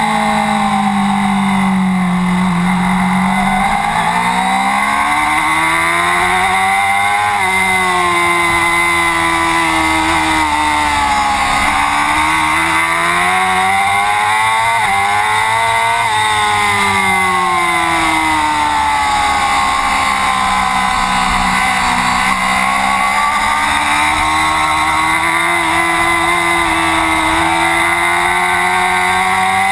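Racing motorcycle engine at full race pace, its revs climbing and dropping again and again through gear changes and corners, over a steady rush of wind noise.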